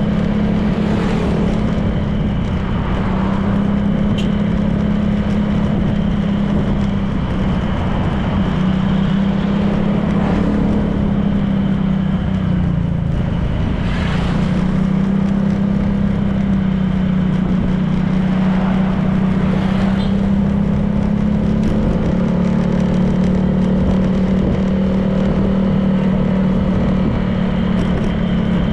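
Honda PCX 160 scooter's single-cylinder engine running at a steady cruise, with wind and road noise over it. Its hum dips briefly about halfway through and then picks up again.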